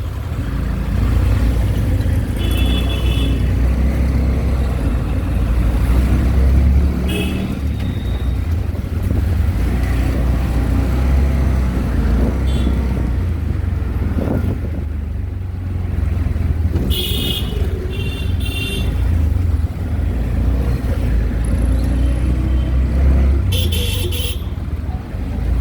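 Street traffic heard from a moving auto-rickshaw: a steady low rumble of engine and road, with vehicle horns honking in short high toots about five times.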